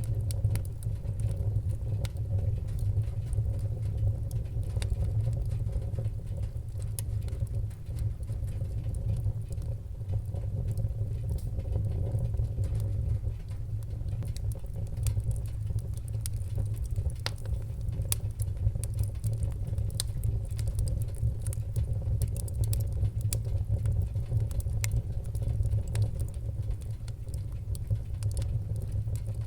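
Fireplace fire crackling: frequent short, sharp snaps and pops over a steady low rumble of the flames.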